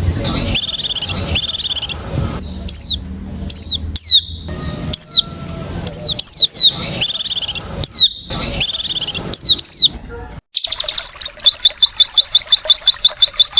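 White-eye (pleci) song: repeated sharp, high chirps that slide downward, mixed with short buzzy trills. After a brief break, a fast, even run of high chirps follows at about ten a second.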